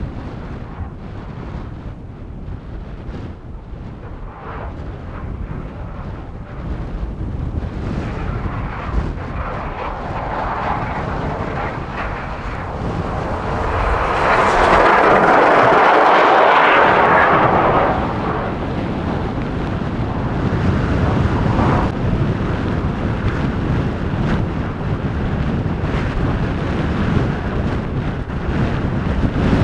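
Strong blizzard wind blowing steadily with a low rumble, swelling into a louder gust about halfway through and then easing off.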